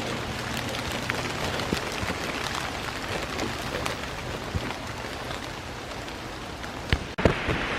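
Steady rain falling, with scattered close raindrops tapping. About seven seconds in, it cuts off abruptly and a couple of thumps follow.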